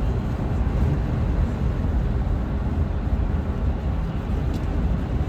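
Strong gusty wind buffeting the microphone: a steady low rumble with no distinct events.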